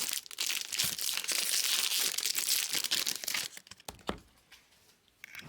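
Baseball card pack wrappers crinkling and tearing as packs are opened by hand: a dense crackle for about three and a half seconds, then a couple of short clicks.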